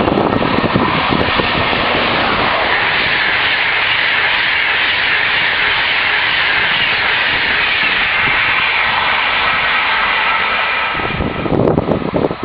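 Electric-locomotive-hauled Intercity passenger train passing close at speed: a steady rush of wheels on rail and air that fades about eleven seconds in as the last coach goes by, followed by wind buffeting the microphone.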